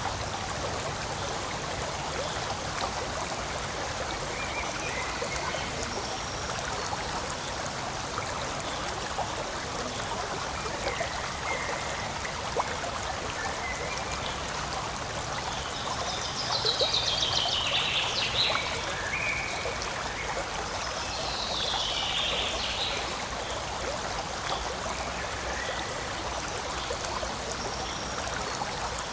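Forest stream flowing steadily with an even rush of water. About two-thirds of the way through it briefly grows louder and brighter twice.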